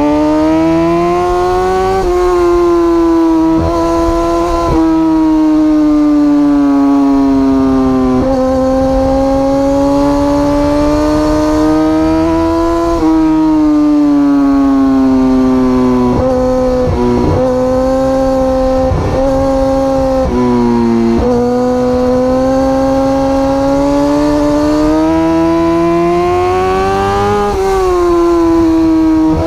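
Superbike engine running hard at high revs, its pitch climbing at the start and then rising and dropping back over and over with sudden breaks, as through gear changes.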